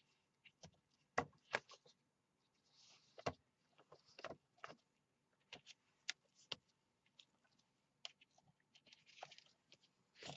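Faint, scattered clicks and taps of small craft items being handled and set down on a work table, with a few short, soft hissing rustles.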